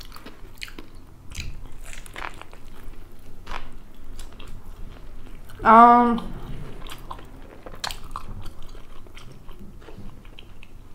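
Close-miked biting and chewing of a bacon double cheeseburger, with many small wet mouth clicks. About six seconds in there is one short, loud hummed "mmm" through a full mouth.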